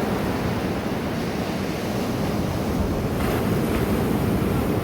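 Sea surf washing on a beach, with wind on the microphone and a brief surge a little after three seconds in.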